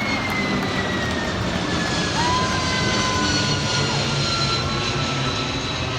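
Jet aircraft engines running with a steady rushing noise, and a high whine that slowly falls in pitch throughout.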